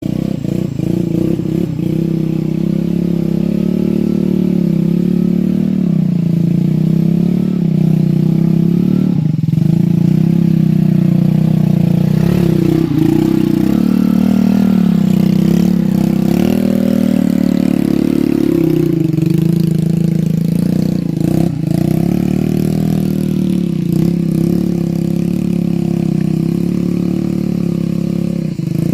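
Motorcycle engine running continuously under throttle, its pitch dipping and rising again several times as it is revved up and down.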